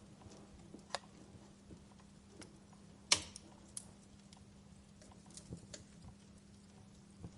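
Wood fire crackling, with scattered sharp pops at irregular intervals, one clearly louder about three seconds in.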